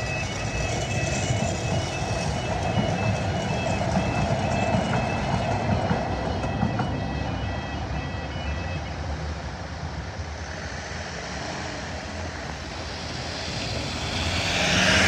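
Tyne and Wear Metro train running over a level crossing while the crossing's audible warning alarm sounds in pulsing high tones; the alarm stops about nine seconds in. Road traffic then moves over the crossing, and a van passing close near the end is the loudest part.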